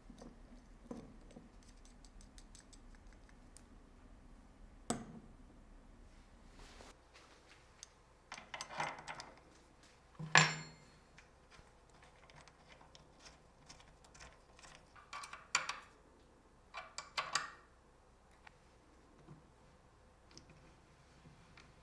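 Workshop handling noises from tools and steel parts: scattered clicks and clinks, the loudest a sharp metallic clank with a short ring about ten seconds in. A faint low hum stops about seven seconds in.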